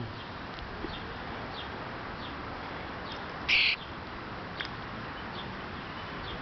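A bird gives one short, harsh, loud call about three and a half seconds in, over a steady background hiss, with faint brief high chirps now and then.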